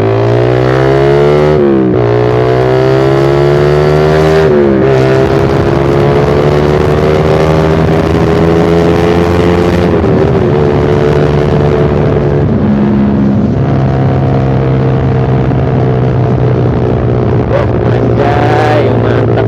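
Suzuki Satria FU Fi motorcycle engine running through a short Pro Liner aftermarket muffler with the dB killer removed, loud while riding. It revs up and drops sharply twice in the first five seconds as it shifts up, then climbs slowly and settles into a steady cruise.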